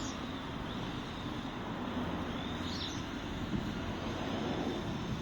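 Shengtuo tractor's four-cylinder diesel engine running steadily as a low rumble, with a bird chirping about halfway through.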